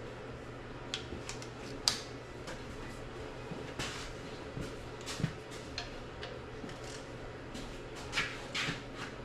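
Scattered, irregular metallic clinks and knocks of hand tools and bolts being handled at an engine block, the sharpest about two seconds in and a cluster near the end, over a steady low hum.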